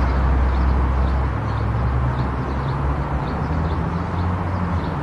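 Car driving on an expressway: steady tyre and road noise with a low engine drone that shifts in pitch. A faint high ticking repeats about every half second.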